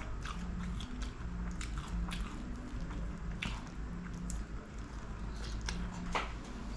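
Close-up wet chewing of soft dosa soaked in gravy: squishy mouth sounds with sharp lip-smacks at irregular intervals, two louder smacks about three and a half and six seconds in.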